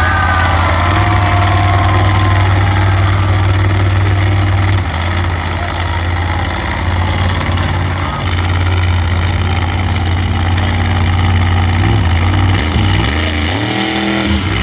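Large engine of a walking monster truck running steadily at idle, then revved up and down a few times near the end.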